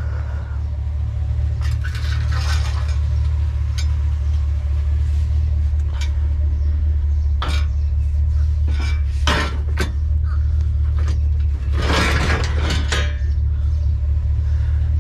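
Steady low rumble of a vehicle running, with scattered clinks and rattles of loose metal at intervals, the longest about twelve seconds in.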